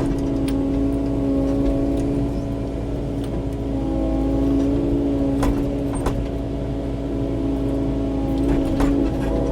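Kubota KX080-4 excavator's diesel engine running steadily under hydraulic work, with a few sharp knocks scattered through as the machine works brush and rock.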